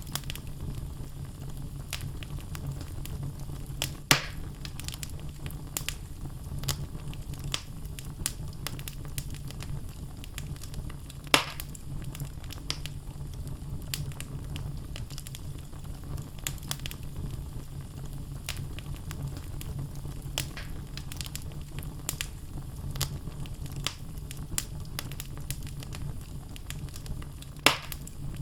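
Wood logs burning in a fireplace: a steady low rumble of flames with frequent crackles and three louder pops, about four, eleven and twenty-eight seconds in.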